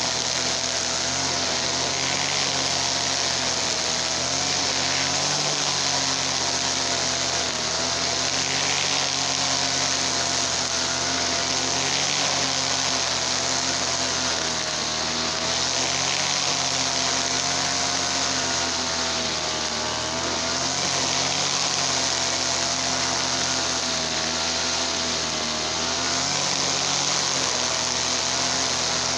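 Easyman TL33 two-stroke brush cutter engine running steadily at a fairly constant speed, its pitch wavering slightly up and down.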